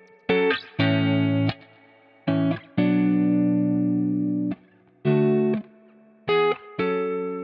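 Electric guitar chords played through the Beatskillz Echorium tape delay plugin. A short stab and then a longer held chord repeat every couple of seconds, each chord cut off abruptly with a faint tail after it.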